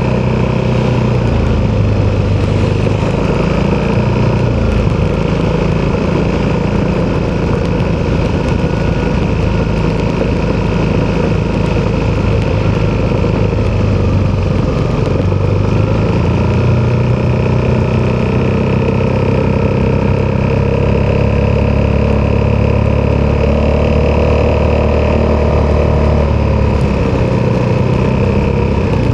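Italjet Dragster 200 Malossi Edition scooter's single-cylinder four-stroke engine running through an Akrapovic exhaust while riding. The engine note rises and falls with the throttle, easing off a few times and picking up again.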